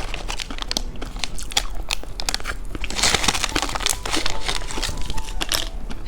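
Close-miked biting and chewing of candy: irregular crunching and crackling, with some crinkling.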